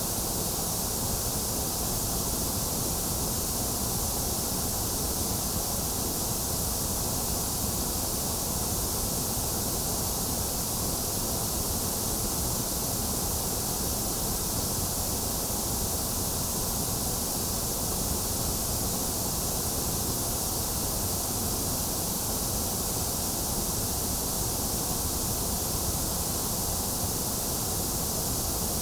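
Steady white-noise track for lulling a baby to sleep: an even, unchanging hiss.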